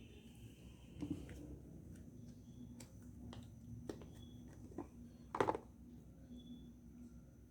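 A handful of light knocks and clicks as hard bars of homemade soap are handled and fitted together, the loudest about five and a half seconds in.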